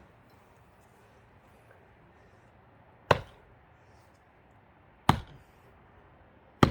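Axe striking wood: three sharp, separate chopping blows, about two seconds and then a second and a half apart, as the axe is worked in a log it had stuck fast in.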